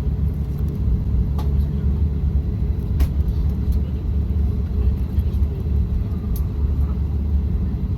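Steady low rumble inside the cabin of a Boeing 737-800 airliner taxiing after landing, with a few sharp clicks.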